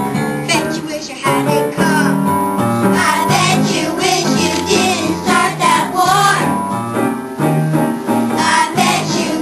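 A child singing a song with instrumental accompaniment.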